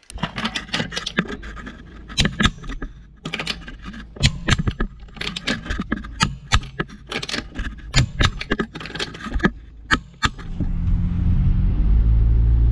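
A quick, irregular run of sharp metallic clicks and clacks from a wrench as the wheel nuts are retightened. About ten seconds in, the Lexus GS300 is under way and a steady low rumble takes over.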